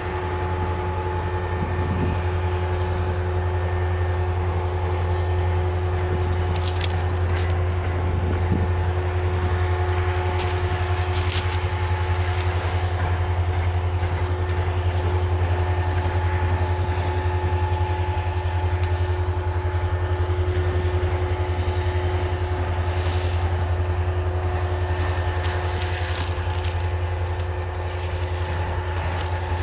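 Autorack freight cars rolling past at a steady speed: a continuous low rumble of steel wheels on rail with steady whining tones, and bursts of metallic rattling and clanking a few times.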